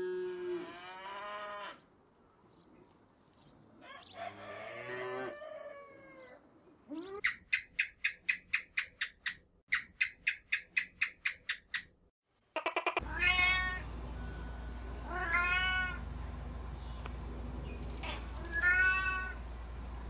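A calf moos at the start, with a second lowing call a few seconds later; then come two runs of fast, sharp chirps, about three a second, for about five seconds; then a domestic cat meows three times over a steady low hum.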